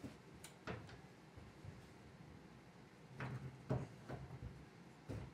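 A few scattered knocks and clanks of metal parts being handled, a pair near the start and a cluster about three to four seconds in, as the snow plow frame is worked into its mount on the four-wheeler.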